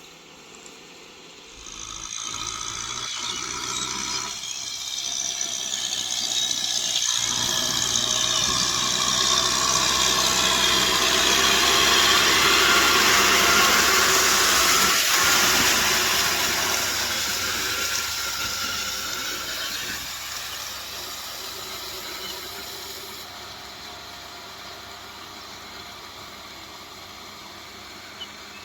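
Kubota M6040SU tractor's diesel engine running with a rotavator tilling, with a dense hiss and rattle. It grows steadily louder to a peak around the middle, then slowly fades.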